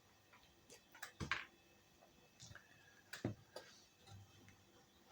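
A few faint, scattered clicks and light taps from hands handling small objects, near silence between them. The clicks come about a second in and again around three seconds in.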